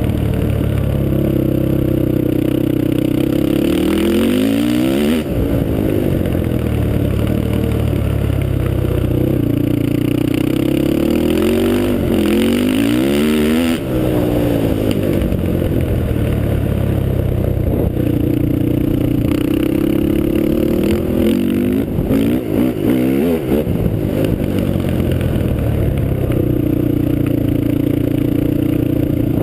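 Honda TRX450R quad's Janssen-built single-cylinder four-stroke engine running through a Motoworks exhaust. It holds steady high revs, then the pitch drops and climbs back three times, about four, twelve and twenty-two seconds in, as the throttle is let off and opened again.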